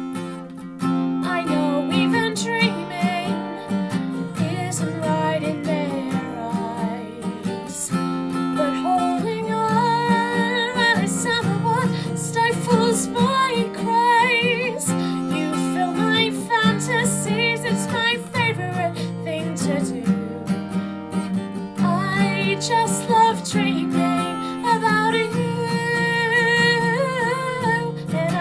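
Music: strummed acoustic guitar with a woman's voice singing a wavering melody line over it.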